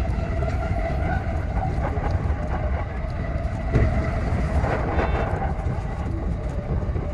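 E233 series electric train running, heard from inside the driver's cab: a steady rumble of wheels on rail under a steady whine, with a brief louder swell about four seconds in.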